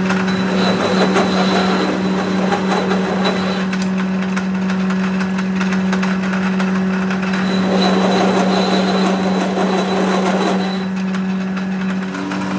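A workshop machine running with a steady motor hum, joined twice for a few seconds by a harsher scraping noise with a thin high whine, as when the machine is cutting or grinding metal.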